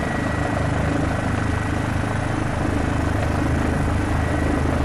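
Steady engine and rotor noise of a police helicopter in flight, with a thin steady whine over it.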